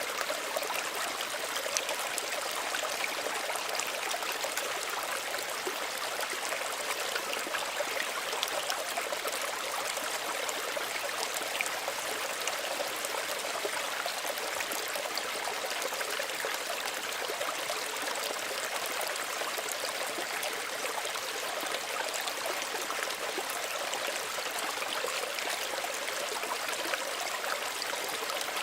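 Small stream running steadily over stones, a continuous gentle rush with fine trickling and splashing.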